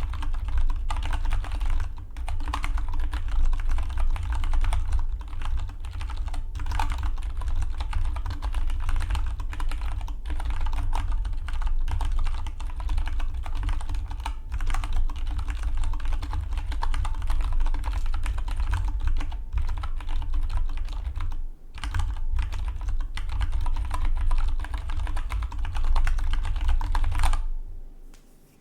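Fast, continuous typing on a Dygma Defy split mechanical keyboard, a dense run of key clicks that pauses briefly near the end.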